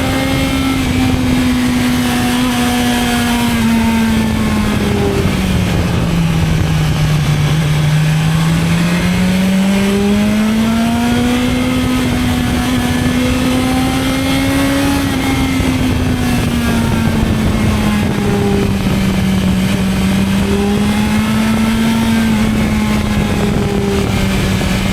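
BMW S1000XR's inline-four engine pulling steadily while riding, its pitch easing down about seven seconds in, climbing back by about fifteen seconds, then settling, with steady wind and road rush underneath.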